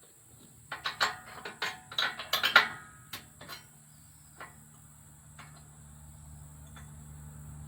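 A quick flurry of metallic clinks and rattles with a short ringing, then a few scattered clicks, while a low steady hum grows slowly louder in the background.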